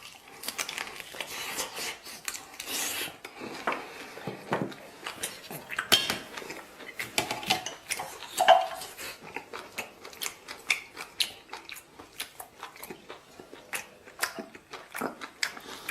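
Eating utensils clinking and scraping against dishes, many small irregular clicks and knocks, with a few louder ones about halfway through.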